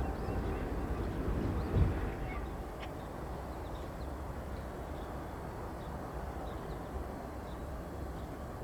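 Diesel freight locomotive rumbling as it moves through the rail yard, with a single thump about two seconds in, then a quieter steady rumble.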